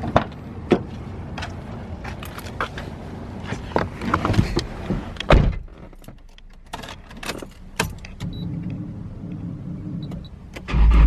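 Car sounds: a run of clicks, knocks and key jangling over a low engine rumble. The engine sound gets much louder just before the end.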